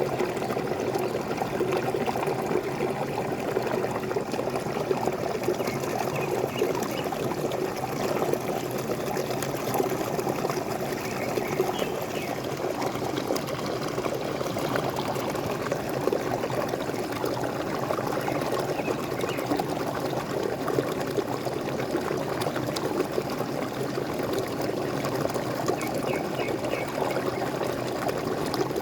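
Water splashing and trickling over a small waterfall, a steady, even rush of water.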